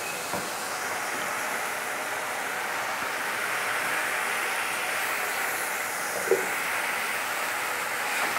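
Sliced onion and garlic sizzling steadily in hot oil in a steel wok, with a light clink of the ladle on the pan about six seconds in.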